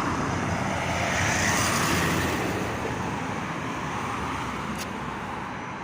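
Strong sandstorm wind blowing, a steady rushing roar with low rumbling buffets on the microphone, easing a little near the end.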